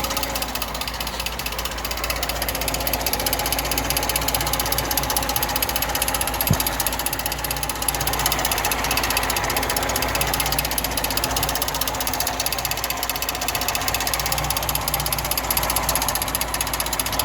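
Idling engine of a fuel-injected eight-valve VAZ 2107 with a fast, steady metallic knocking from the right side of the engine, which the owner blames on a worn alternator bearing.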